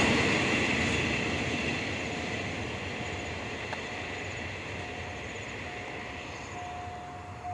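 Freight train rolling away, its rumble fading steadily. A thin, steady high tone comes in during the second half.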